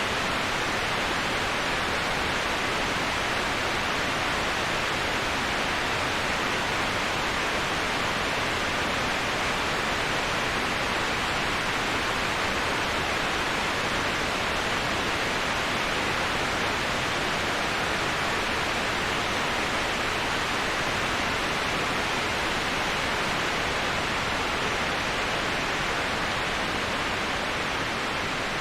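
Steady rush of falling water from a waterfall: an even, unbroken hiss with no change in level.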